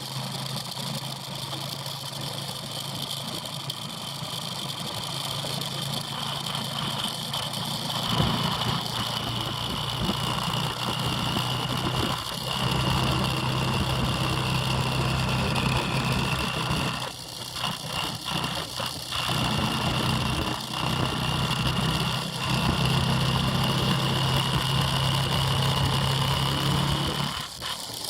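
Motorbike engine running at a steady pace with a thin high whine above it. It gets louder about a third of the way in and is broken by several brief dips, a cluster of them a little past the middle.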